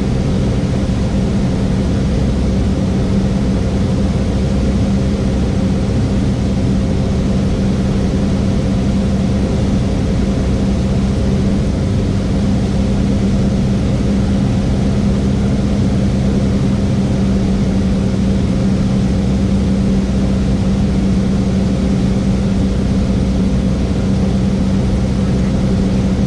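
Cessna 172S's four-cylinder Lycoming engine and propeller running steadily in flight, a constant drone with a strong low hum.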